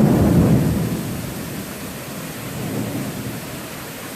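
Thunder rumbling low and dying away over the first second or so, with steady rain falling throughout.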